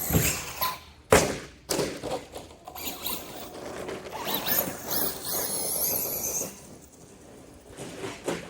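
Arrma Kraton RC car hitting the ground with two hard thuds about a second apart, then rattling and clattering along with a wavering high electric-motor whine that dies away near the end. It is running on a badly bent axle.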